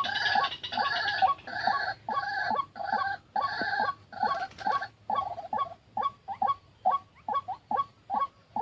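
White-breasted waterhen ('wak wak') calling: a run of loud, repeated calls about two a second, which about five seconds in change to shorter, quicker notes at roughly three to four a second.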